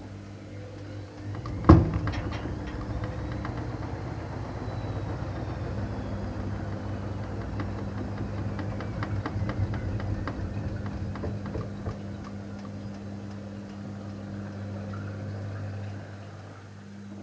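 Electrolux washing machine running: a sharp clunk about two seconds in, then a steady hum with scattered clicks and rattles, easing off near the end.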